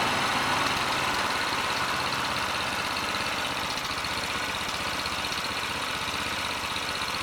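Honda Super Cub 50's small single-cylinder four-stroke engine idling steadily, running on an auxiliary fuel tank; it settles down from slightly higher revs in the first second.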